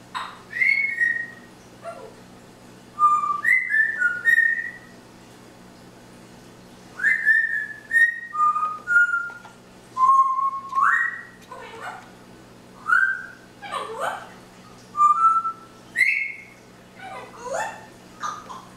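Pet parrot whistling and calling in bursts: short whistled notes, some gliding up or down, mixed with sweeping squawk-like calls, over a faint steady hum.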